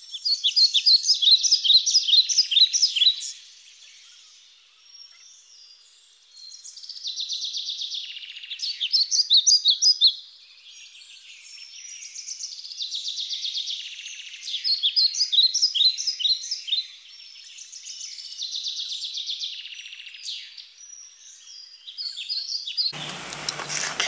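Birds singing in bouts of quick, high chirps, each bout lasting a few seconds with quieter gaps between.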